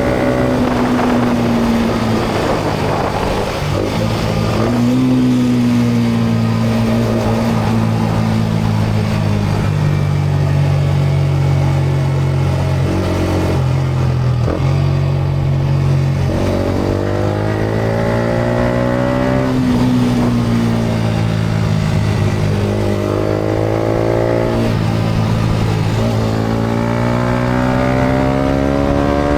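Yamaha MT-125's single-cylinder 125 cc four-stroke engine through a GPR aftermarket exhaust while riding. Its revs climb in several rising pulls and drop back as the rider accelerates and eases off, over a steady rush of wind and road noise.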